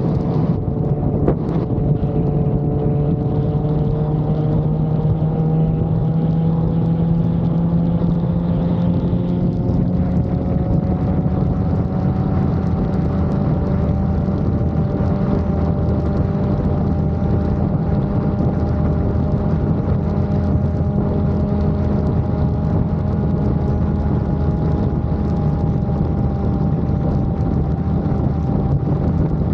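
Motorcycle engine running steadily while cruising, its pitch rising slowly over the first dozen seconds and then holding, with some wind noise on the microphone.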